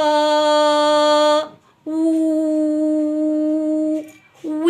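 A woman's voice singing long, steady "wooo" notes on one pitch: two held notes, then a third starting near the end. She is sounding out the Arabic letter waw (و) as a melodic-intonation articulation exercise for speech therapy.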